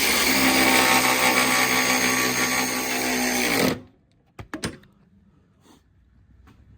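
Handheld power tool motor running steadily for nearly four seconds, driving the nuts onto the rear sway bar bracket bolts, then stopping suddenly. A few sharp clicks follow, and then it goes nearly quiet.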